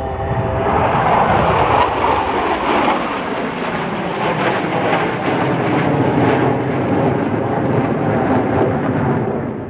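Loud, steady roar of an aircraft in flight, rising about a second in and easing off near the end.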